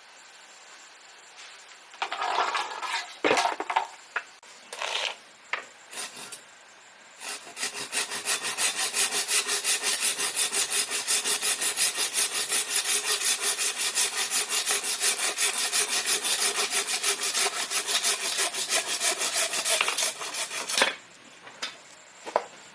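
Hand saw cutting through bamboo in rapid, steady back-and-forth strokes for about thirteen seconds, stopping abruptly. Before it come a few scattered scrapes and knocks of the bamboo being handled, and there are two short knocks near the end.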